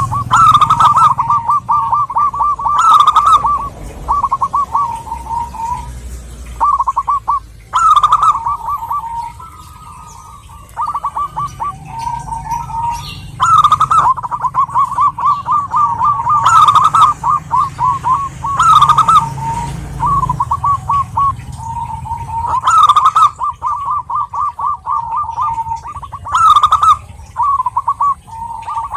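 Zebra doves singing: rapid trains of short, staccato cooing notes, repeated phrase after phrase, some phrases louder than others.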